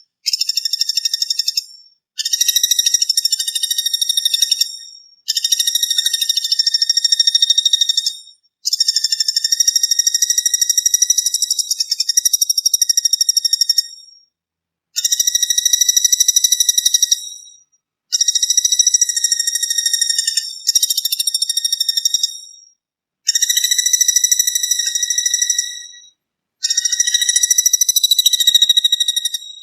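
A shrill, fast-pulsing 'brem' buzzing song, repeated as phrases of two to three seconds separated by short pauses.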